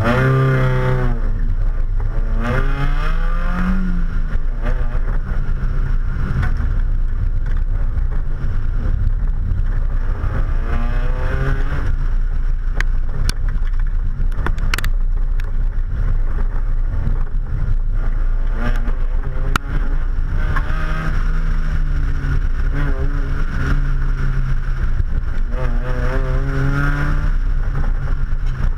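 Mazda Miata's four-cylinder engine revving up and falling back again and again through an autocross run, over a steady low rumble of wind and road noise on a door-mounted camera. A few sharp clicks come around the middle.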